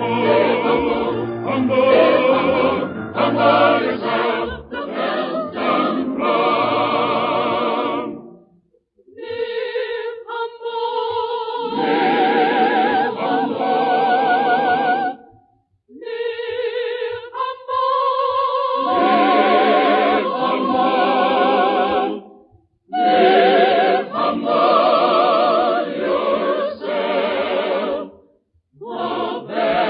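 Choir singing a gospel hymn, voices held in long wavering notes, in phrases broken by short pauses about every seven seconds. The sound is thin, with no high end, as from an old radio broadcast recording.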